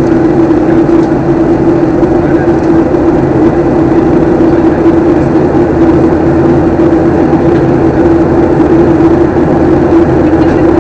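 Airliner cabin noise in flight: the jet engines and rushing air make a steady, loud drone with a constant low hum.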